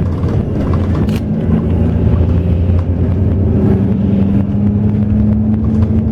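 Diesel engine of an intercity highway bus running steadily, with a low hum. Its pitch climbs slightly in the second half as the bus picks up speed.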